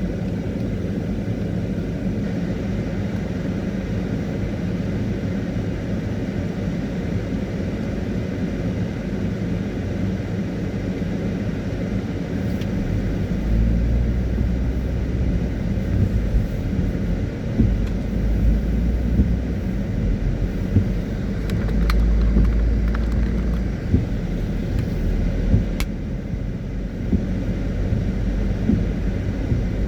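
Car driving, a steady low rumble of engine and road noise that grows heavier and deeper about halfway through, with a few faint sharp ticks near the end.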